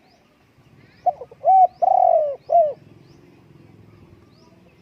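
Spotted dove cooing: one phrase of four notes about a second in, the third note held longest. Faint high chirps of other small birds run underneath.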